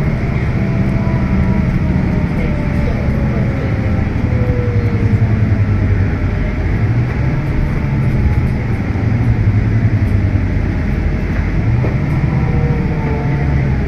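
Scania K320UB diesel-electric hybrid bus under way, heard from inside: a steady low drone with a faint electric-drive whine that slides down in pitch a few seconds in and again near the end.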